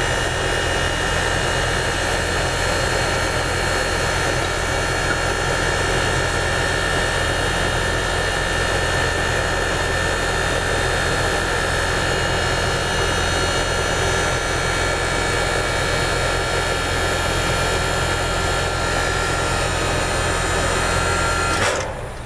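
American Standard air conditioner condensing unit's compressor running steadily with a low hum and a constant high tone during a pump-down, at low suction pressure near the end of the pump-down. It shuts off suddenly near the end.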